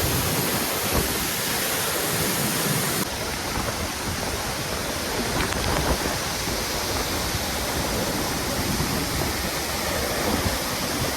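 Waterfall rushing steadily, a dense, even roar of falling water, dipping slightly about three seconds in.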